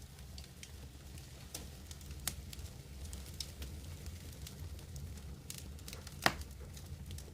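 Wood campfire crackling, with scattered small pops over a low, steady rumble and one loud pop about six seconds in.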